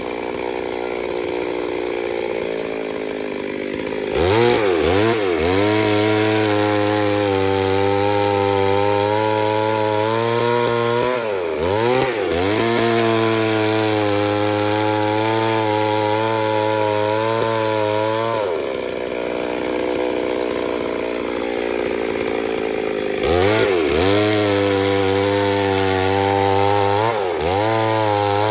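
Two-stroke chainsaw running at high revs cutting wood. It has a few brief, sharp dips in engine pitch and two quieter stretches where it eases off.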